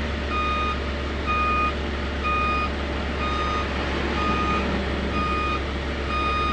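Roller brake tester starting up and running: its drive rollers turn the truck's front wheels with a steady low hum, while a warning beeper sounds short beeps about once a second.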